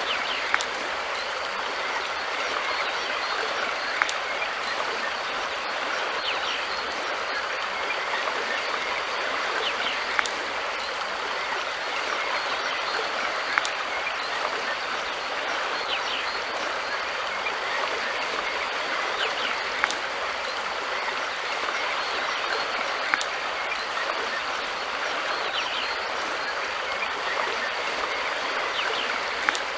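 River water flowing steadily, with a sharp click standing out every few seconds.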